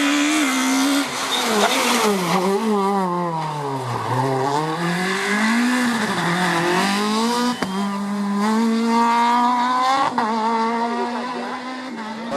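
Rally car engine at high revs. The revs drop to a low point about four seconds in, swing up and down again, and then climb in steps as the car accelerates through the gears, with a brief break near ten seconds.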